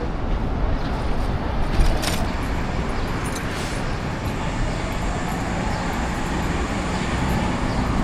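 Steady city traffic noise, a constant even rush of passing vehicles, with a brief sharp click about two seconds in.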